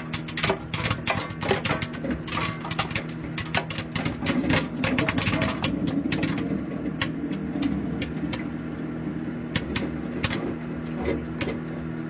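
Popcorn kernels popping inside a running microwave oven: sharp pops, dense at first and thinning out toward the end as the batch finishes, over the oven's steady hum.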